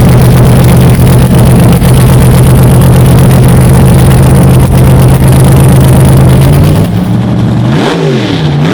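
Loud drag-race car engine holding a steady high idle. About seven seconds in it drops back, then revs up and down twice in quick throttle blips.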